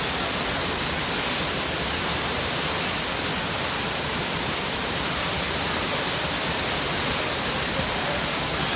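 Steady, even rush of falling and flowing water from a waterfall or mountain stream.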